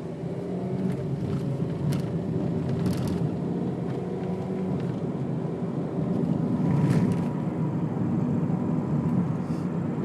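A car driving along, heard from inside the cabin: a steady low engine hum and road noise, with a few faint knocks.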